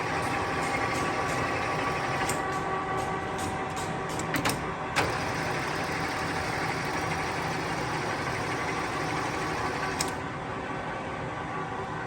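Large engine lathe running, a steady gear hum with several constant tones. A few clicks and a sharp knock come about four to five seconds in, and another click about ten seconds in, after which it runs a little quieter.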